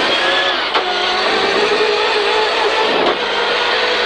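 Peugeot 306 rally car's engine pulling hard under acceleration, with two quick upshifts, one just under a second in and another about three seconds in, the engine note climbing between them.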